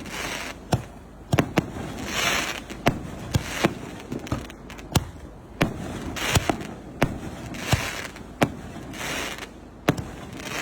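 A 3-inch, 88-shot display shell fireworks cake firing: a steady run of sharp bangs about every half second to second, with a few longer hissing swells between them.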